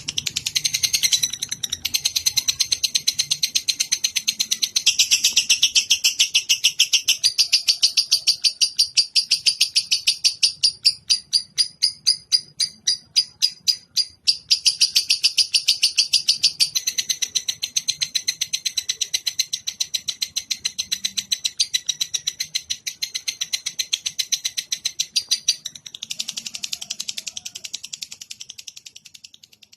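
Lovebird chattering in a long, unbroken run of rapid, evenly repeated high chirps, the continuous trill played as a song-tutoring track. It is briefly softer about halfway through.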